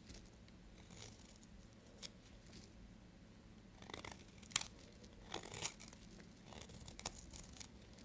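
Knife cutting and scraping into bar soap: a few short, sharp cuts, grouped between about four and six seconds in, the loudest about four and a half seconds in.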